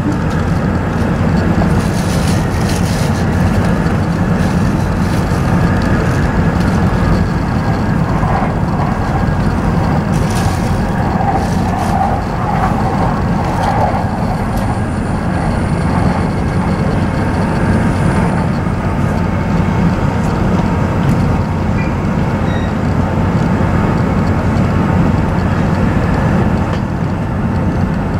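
Steady running noise heard inside the cabin of an E7 series Shinkansen train under way: a deep rumble with a hiss over it, and a faint high whine for a few seconds past the middle.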